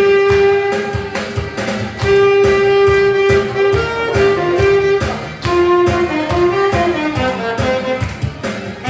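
Saxophone playing a melody of long held notes and short stepping runs over a backing track with a steady drum beat.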